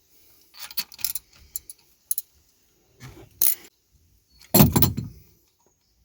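Metal clinking and clanking in short irregular bursts, like hand tools and metal parts being handled, with one heavier clank about four and a half seconds in.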